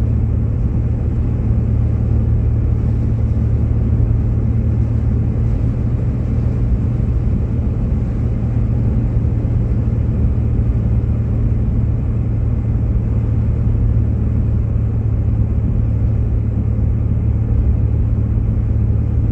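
Steady low drone of a Jeep Grand Cherokee driving on snow-covered roads, heard from inside the cabin: engine and tyre rumble with no change in pitch.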